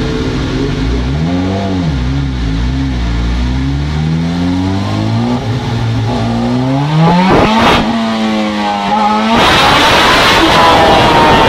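Motorcycle engine under load on a dynamometer, revving: a short blip of the throttle, then a steady climb in pitch for several seconds, growing louder and harsher at high revs near the end.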